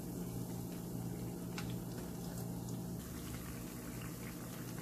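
Bread triangles sizzling steadily as they shallow-fry in hot ghee in a frying pan on a low flame.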